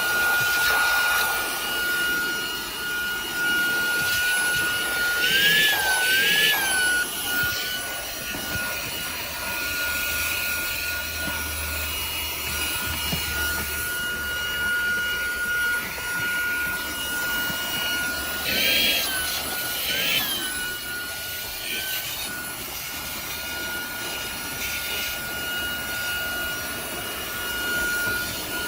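ZARIMI cordless handheld car vacuum's brushless motor running with a steady high whine over rushing air. The pitch briefly wavers up and back twice, about six seconds in and again near twenty seconds.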